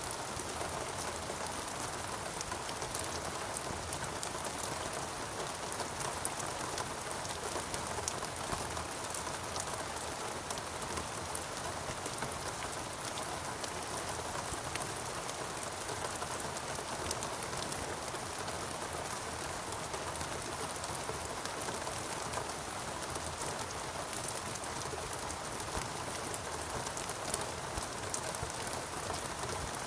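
Steady heavy rain falling on foliage and ground, a dense even hiss with many close individual drop patters.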